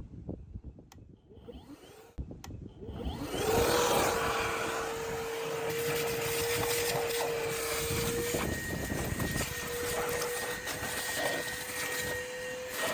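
A vacuum cleaner switched on about three seconds in after a few light knocks, its motor spinning up to a steady whine over rushing air as it sucks debris out of the base of a heat pump's outdoor condensing unit. The whine dips briefly about eight seconds in, then steadies again.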